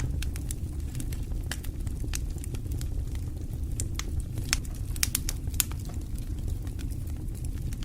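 Wood fire burning in a fireplace: a steady low rumble with irregular sharp crackles and pops throughout, a cluster of louder pops about five seconds in.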